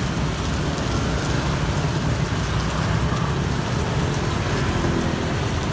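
Oil sizzling steadily as food fries in a pan, over a steady low rumble.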